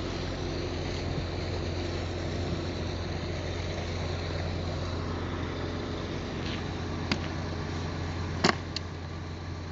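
Concrete pump truck's engine running steadily with a low hum. A few sharp knocks come near the end, the loudest about eight and a half seconds in.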